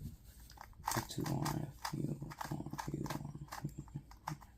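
Quick, irregular clicks of a 2x2 puzzle cube being turned, with several short, low voice-like sounds over them from about a second in.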